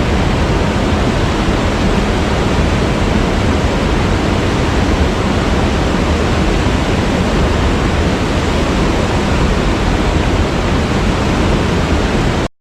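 Waterfall: water falling in a steady, even rush of noise with a heavy low end. The sound cuts out for a split second near the end.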